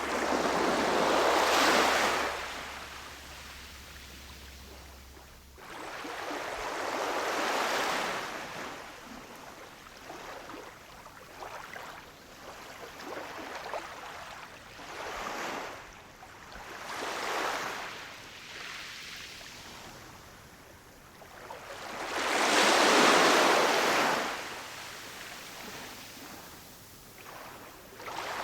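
Ocean waves breaking and washing up the shore in slow surges, three big breakers (about a second in, around seven seconds and near 23 seconds) with smaller swells between.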